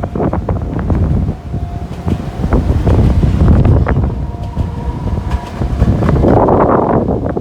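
An Enoden electric train running, under heavy buffeting of the microphone by strong typhoon wind, with a faint whine that comes and goes and scattered clicks; a hissing swell rises about six seconds in.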